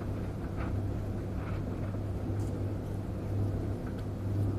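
A steady low hum with a few faint rustles and light knocks from clothes being handled and sorted.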